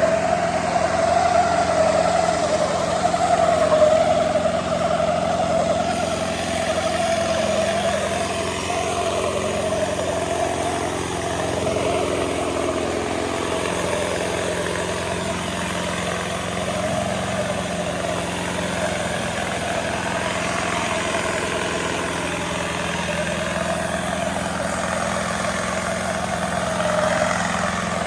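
Diesel tractor engines running steadily, a continuous drone that wavers slightly in pitch and is a little louder in the first few seconds.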